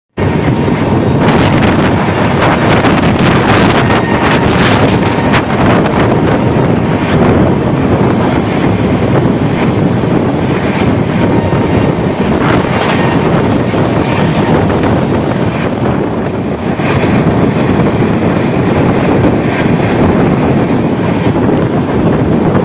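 Wind buffeting the microphone over the rumble of LHB coach wheels on the rails, heard from the side of an express train running at about 92–102 km/h. A few sharper clicks stand out in the first few seconds and again around halfway.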